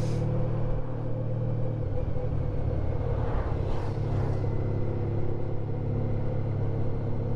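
Honda ST1300 Pan European's V4 engine running steadily at a constant speed while the motorcycle is ridden along the road. A brief whooshing swell rises and falls about three to four seconds in.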